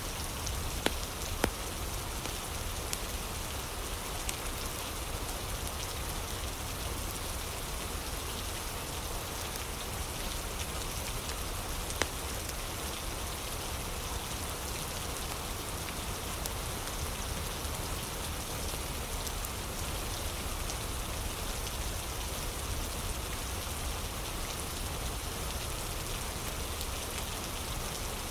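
Steady rain, with a few sharp pops from a crackling fire, the loudest about twelve seconds in.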